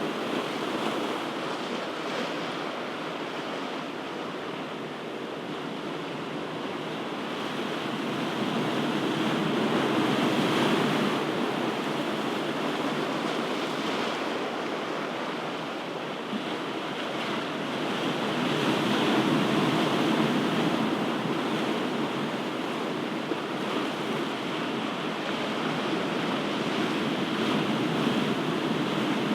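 Ocean surf: waves washing ashore in a continuous hiss that swells and eases slowly, with two louder surges about ten seconds apart.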